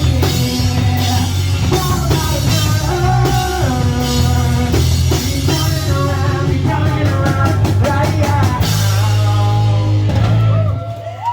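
Rock band playing live with a drum kit, a run of rapid drum hits in the middle, and the song cutting off shortly before the end.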